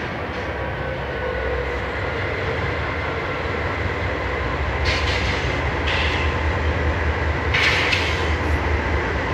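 BNSF diesel freight locomotives approaching and passing, their engine rumble growing steadily louder as the train arrives. Short bursts of hiss come about five seconds in and again near the end.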